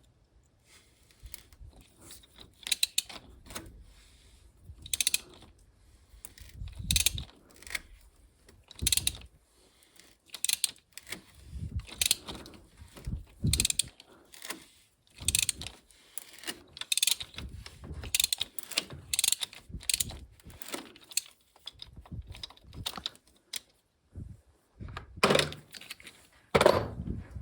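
Hand tools clicking and clinking in short, irregular bursts, with a few dull knocks.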